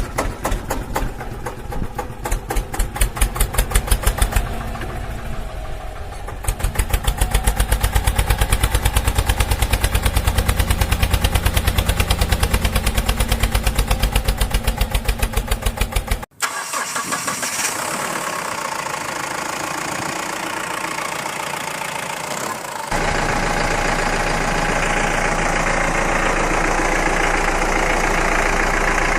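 Tractor engine running with an even, rhythmic chug. It changes abruptly several times, with sudden cuts at about four, six, sixteen and twenty-three seconds, then settles into a steadier running sound.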